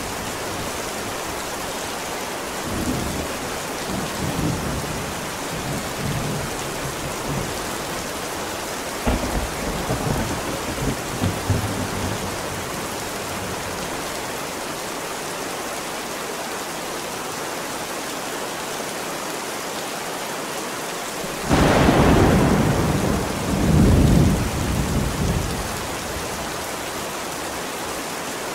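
Steady heavy rain falling, with low rolls of thunder rumbling twice in the first half. About three-quarters of the way through comes a sudden loud thunderclap that rumbles on for several seconds.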